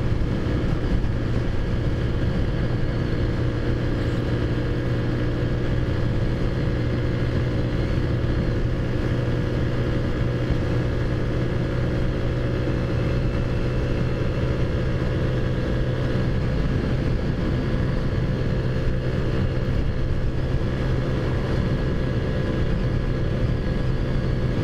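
Modified 50cc four-stroke scooter engine (Taotao Zummer with big bore kit) running steadily at cruising speed, with wind rumbling on the microphone.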